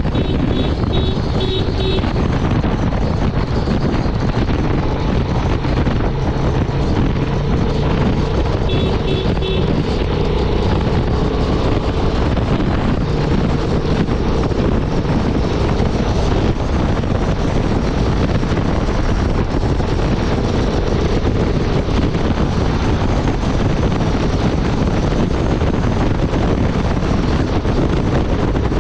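Honda Transalp 750's parallel-twin engine running steadily at highway speed, under heavy wind noise on the microphone. A few short high beeps sound near the start and again about nine seconds in.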